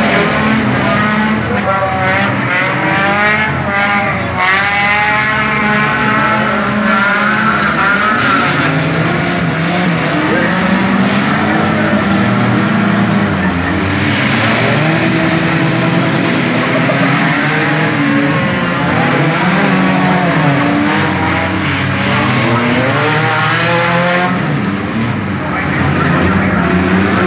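Several junk race cars' engines revving hard around a dirt track, their pitch rising and falling as the cars accelerate, lift and pass.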